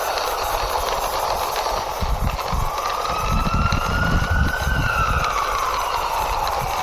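Fire-engine siren wailing, sliding slowly up in pitch, then down and back up. A low rumble sounds under it through the middle.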